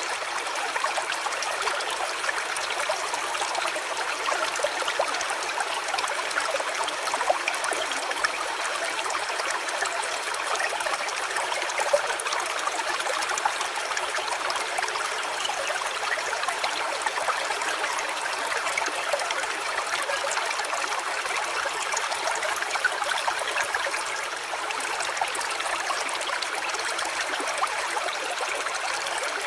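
Stream water trickling steadily.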